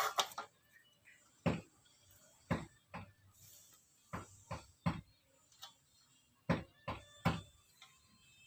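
About ten sharp, irregularly spaced knocks and taps as bird-cage spokes are worked by hand.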